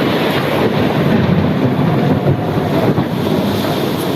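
Thunderstorm noise: a loud, steady rumble of rolling thunder and rain, with wind buffeting the microphone.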